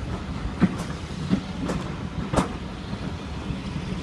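Heritage railway coach running along the track, heard from a carriage window: a steady low rumble broken by a few sharp clicks as the wheels pass over rail joints.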